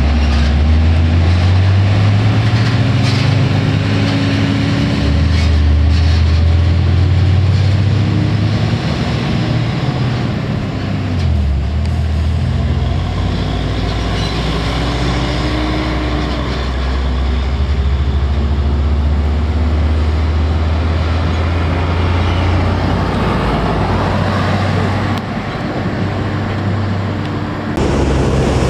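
Heavy truck's diesel engine labouring under load on a climb. Its note holds steady, dips and recovers about eleven seconds in, then runs steady again.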